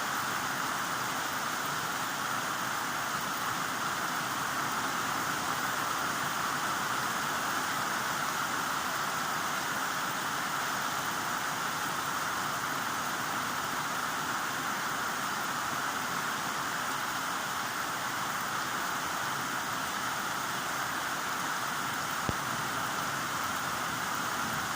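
Heavy rain falling steadily, an even hiss with no letup. A single brief click shows up near the end.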